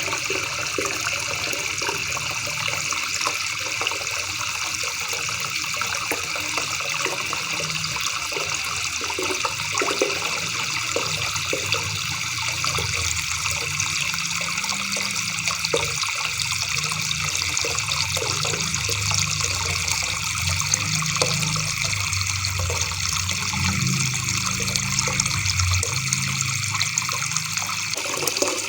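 River water babbling and trickling steadily, with a low rumble underneath that grows stronger in the second half.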